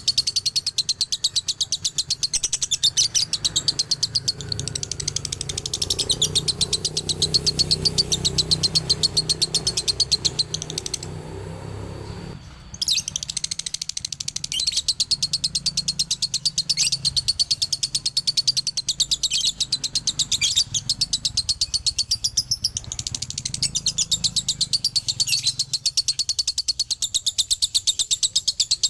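Male lovebird singing its long, rapid chatter of high chirps (the 'ngekek' or 'dobelan' that bird keepers prize), pausing for about two seconds near the middle and then carrying on.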